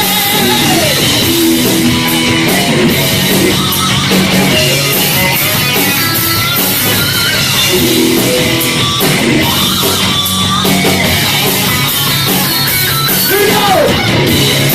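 Live metal band playing loud, with electric guitar and drums over a full band mix.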